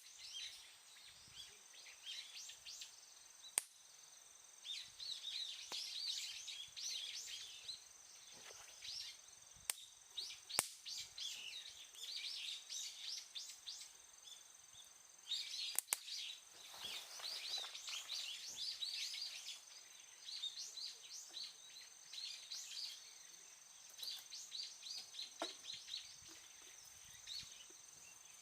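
Birds chirping in repeated bursts of quick, high notes over a steady, thin high-pitched tone, with a few sharp clicks.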